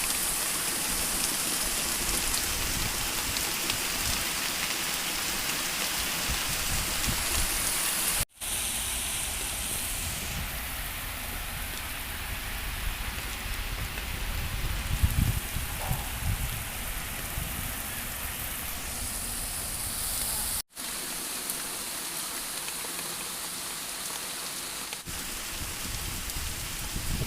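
Steady rain falling, an even hiss of drops on surfaces, broken twice by sudden brief cuts in the recording.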